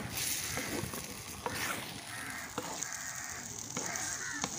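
Duck meat sizzling in a clay pot as it is stirred with a wooden spatula, the spatula scraping and knocking sharply against the pot about once a second.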